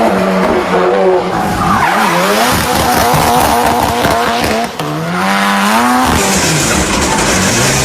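Drift car engine revving hard, its pitch rising and falling, over the squeal of sliding tyres. The engine drops briefly about four and a half seconds in, then revs up again.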